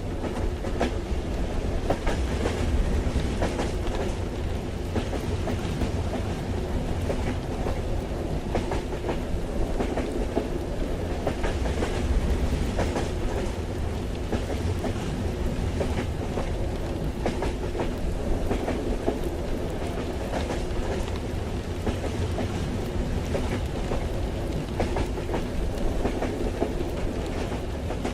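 Train carriage interior ambience: a steady low rumble of the moving train with wheels clicking over the rail joints, and rain on the carriage.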